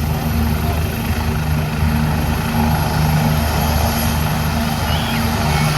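Police helicopter running, its rotor giving a fast, steady chop over a constant engine noise.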